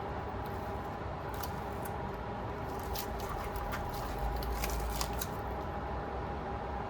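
Scattered light clicks and rustles of small objects being handled and moved on a work table, over a steady low hum. The clicks cluster between about one and a half and five seconds in.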